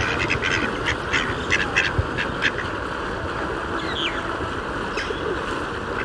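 Mallard ducks quacking in a quick run of short calls over the first two and a half seconds, then a steady background hiss with a couple of short, high bird chirps.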